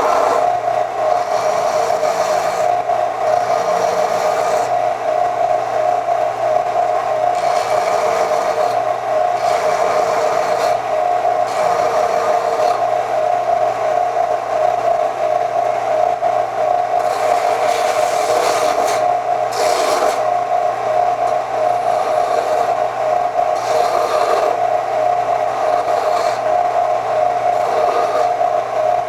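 An electric power tool running with a steady whine, scraping rust off an old steel tractor wrench down to bare metal. The scraping grows louder and softer as the tool is worked over the metal.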